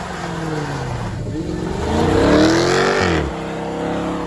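Car engine revving: its pitch climbs from about a second and a half in, peaks, and falls back just after three seconds, then holds steady.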